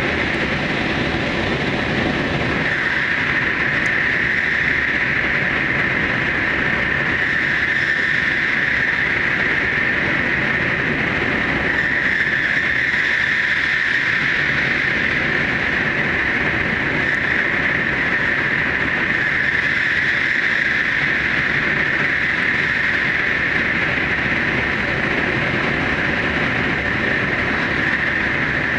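Super Hakucho limited express electric train (789 series) running at speed through the Seikan undersea rail tunnel: a steady, unbroken rumble of wheels on rail with a strong hiss high up, enclosed by the tunnel.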